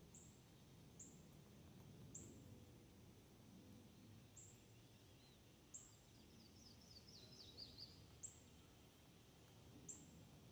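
Faint bird calls: short, sharp, high chirps that fall in pitch, one every second or two, with a quick run of falling notes a little past the middle.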